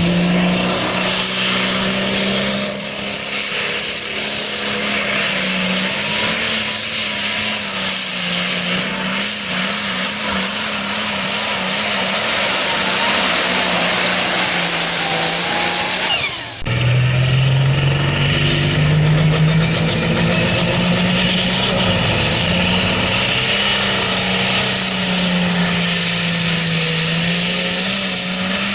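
Diesel tractor engine running hard at high, fairly steady revs under load, with a turbocharger whine rising over it. The sound breaks off suddenly about two thirds of the way through and picks up again at a slightly lower pitch, climbing.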